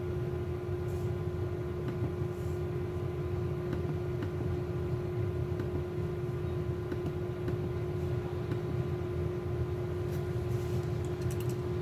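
Steady machine hum with a constant mid-pitched tone over a low rumble, and a few faint clicks.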